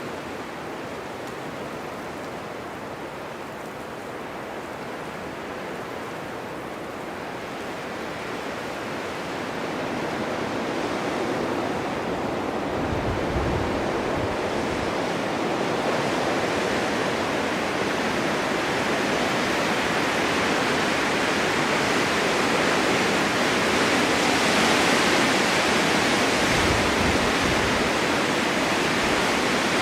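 Blizzard wind blowing snow, a steady rushing hiss that swells into a stronger, brighter gust from about a third of the way in, with a couple of low buffets.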